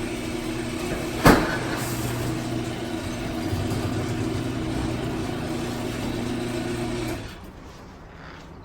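Harley-Davidson V-twin engine of a custom motorcycle running steadily, with one sharp knock about a second in; the engine sound cuts out about seven seconds in.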